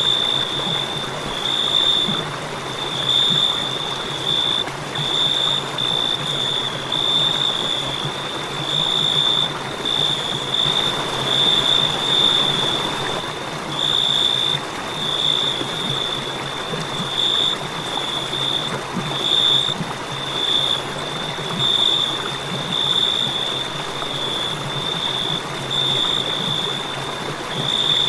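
Crickets chirping in a high, steady trill that swells and pulses about once or twice a second, over a constant rushing hiss.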